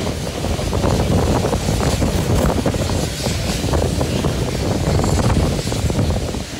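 Wind rushing over the microphone at an open carriage window of a moving steam-hauled train, over the steady low rumble of the carriage wheels on the rails.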